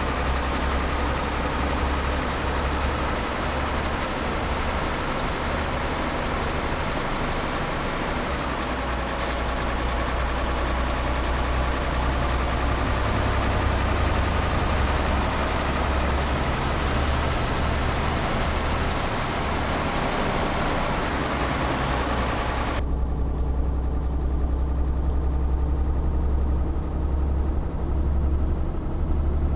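Tanker truck's engine running steadily, heard from inside the cab as a deep, even hum with road hiss over it. About three quarters of the way through, the higher hiss drops away suddenly, leaving the low engine hum.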